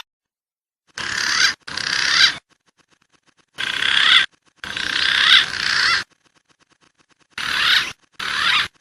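Bird-call lure recording playing in six short edited bursts of chirping, warbling calls, each starting and stopping abruptly with dead silence between them.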